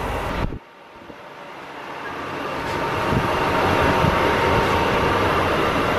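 Running noise of a moving passenger train, cutting in abruptly about half a second in, then rising over about three seconds and holding steady.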